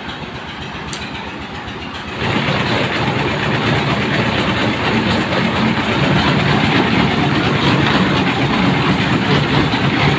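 A train running past, a steady, dense rumble of wheels and engine that grows louder about two seconds in.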